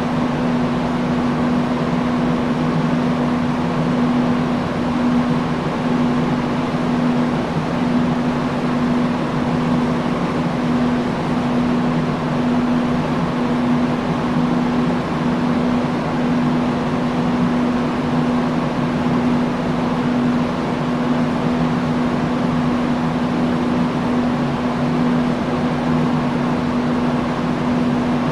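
Industrial fan running steadily: a constant rush of air with a low, even hum underneath.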